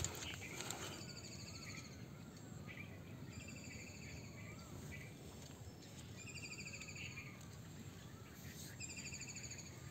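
Outdoor ambience with birds calling: short, buzzy trilled calls repeated every second or two, with a few faint whistles, over a quiet steady background.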